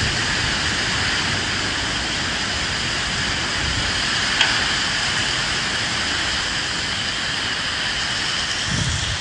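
Steady rain falling, an even hiss without breaks, with one brief sharp tick about halfway through.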